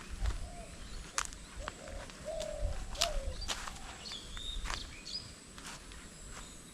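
Rural outdoor ambience under a windy sky: birds calling in short repeated notes, with a couple of higher whistled calls about four seconds in, over a low rumble of wind and scattered light clicks and knocks.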